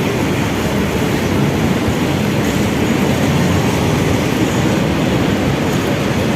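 Steady low rumbling of a moving vehicle, even throughout with no distinct knocks or tones.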